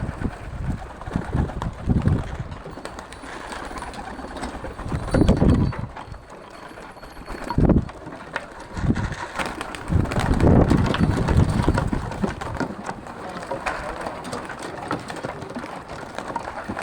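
Pigeons cooing in low bursts every few seconds, over a steady background hum of noise.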